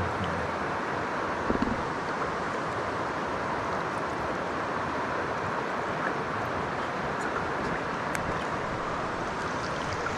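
Mountain stream water rushing steadily, with a brief low knock about one and a half seconds in.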